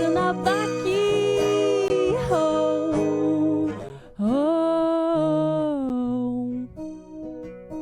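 Acoustic guitar strumming chords under a woman's voice singing long, wordless held notes that glide up and down, with a short break about four seconds in; the playing thins out near the end.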